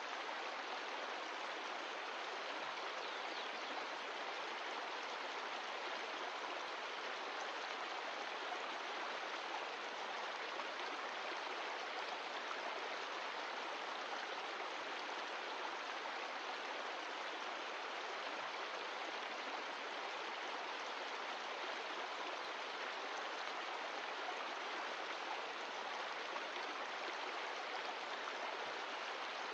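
Mountain stream rushing steadily, an even, unbroken water noise.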